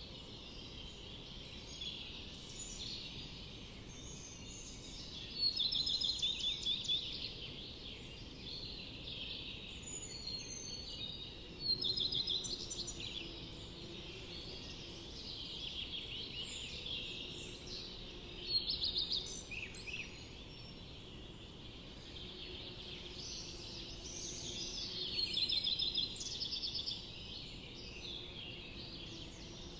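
Songbirds singing: short, high trilled phrases come every few seconds, loudest around six, twelve, eighteen and twenty-five seconds in, over a steady low background hiss.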